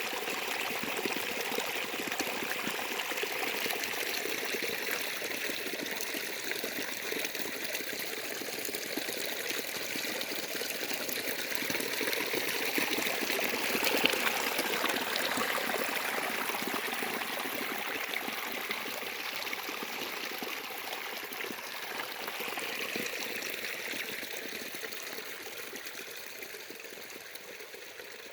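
A small waterfall: water falling and trickling steadily over rocks, getting quieter over the last few seconds.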